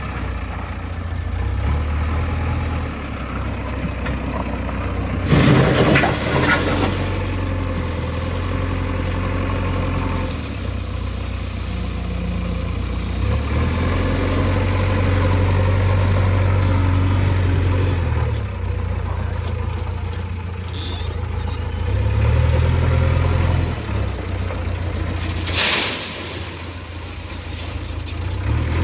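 Heavy diesel engine of a JCB 3DX backhoe loader working, its note rising and falling as the hydraulics take load and ease off. Two brief rushing noises cut through, about six seconds in and again near the end.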